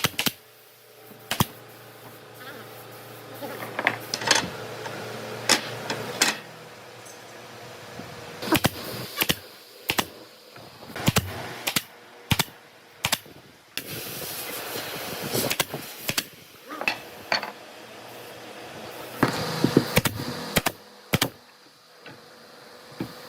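Sharp knocks and taps of hand-tool work on wood, a dozen or more at uneven intervals, some louder than others, over a faint steady hum.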